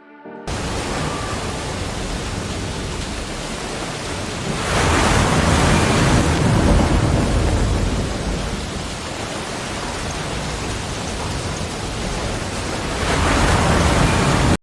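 Loud, steady rushing noise of a storm with heavy rain. It swells about four and a half seconds in and again near the end.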